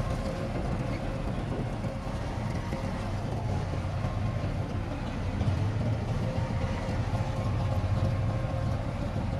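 Heavy diesel construction machinery running steadily under load, a low engine drone with a faint steady whine above it, swelling a little a few seconds in.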